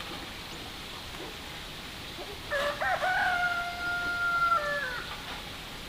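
Rooster crowing once: a single long cock-a-doodle-doo of about two and a half seconds, starting a little before halfway through, held on one note and dropping in pitch at the end.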